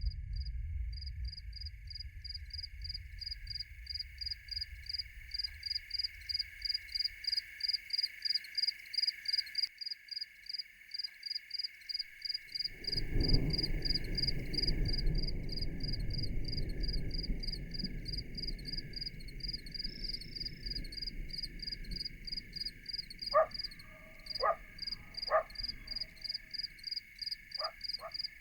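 Frogs calling in a chorus: a steady high trill with a sharper high pulse repeating about three times a second. About halfway through, a low rumble swells up and slowly fades, and a few sharp clicks come near the end.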